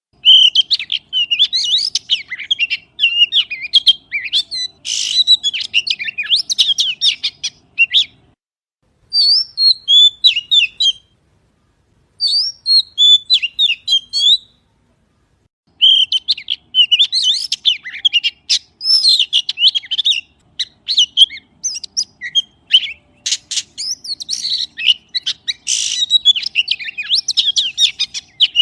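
Magpie singing in phrases of quick chirps and whistles, with short pauses about 8, 11 and 14 seconds in.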